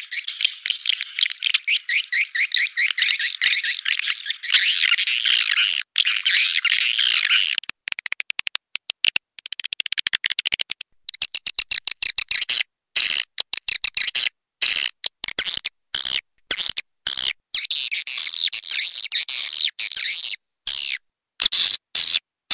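Swiftlet calling-sound recording, a sound lure for swiftlet houses: a dense, high, rapid twittering chatter of many swiftlets. About 8 seconds in it breaks into short chopped bursts with silent gaps between them.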